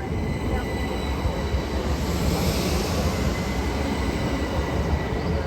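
Train running past on the line: a steady rumble of wheels on rail, with a rushing hiss that swells about two to three seconds in and faint high steady tones above it.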